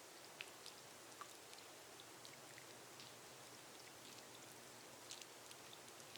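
Faint rain on a glass roof: a steady soft hiss with many individual drops ticking at irregular moments.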